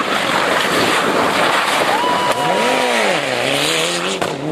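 Rally car engine at speed, its note climbing, dropping and climbing again over a loud rushing noise of the car on the stage road.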